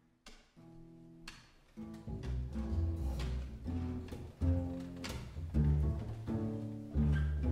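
A live band plays the instrumental opening of a song on low strings, cello-like and double-bass-like, with some plucked notes. The music starts softly, a deep bass line comes in about two seconds in, and the playing grows louder.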